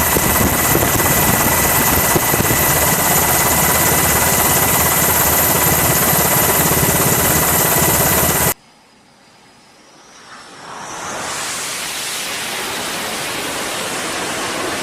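Loud aircraft noise with a fast, even chop and a steady high whine, cutting off abruptly about eight and a half seconds in. After a moment of near quiet, a steady rushing noise fades up.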